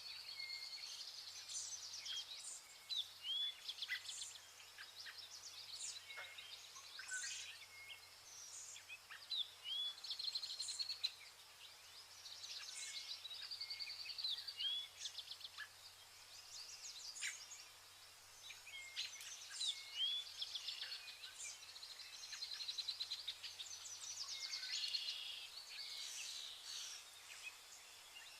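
Vernal hanging parrots calling: a busy run of short, high-pitched chirps, quick rising notes and buzzy rapid trills, several birds overlapping.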